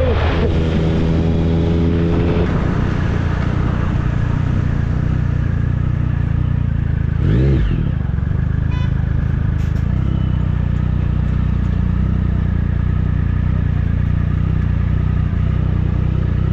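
Triumph Speed Triple 1050's inline three-cylinder engine through an SC Project exhaust, cruising at a steady pitch. About seven seconds in there is a brief rise and fall in pitch.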